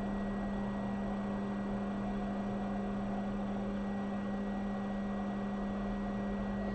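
Hot air rework station blowing steadily while reflowing a chip, an even hiss over a constant low electrical hum.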